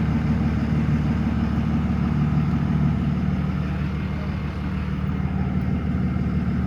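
Diesel pickup truck engine idling steadily.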